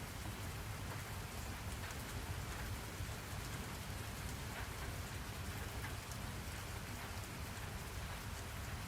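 Steady rain falling: an even hiss of rain with faint scattered drop ticks and a constant low rumble underneath.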